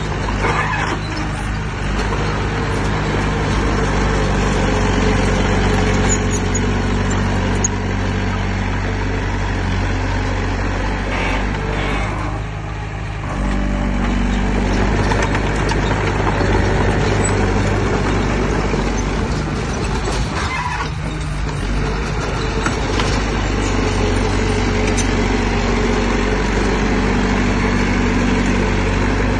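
Heavy diesel engine of earthmoving machinery running steadily under load, briefly easing off about twelve seconds in and again near twenty-one seconds.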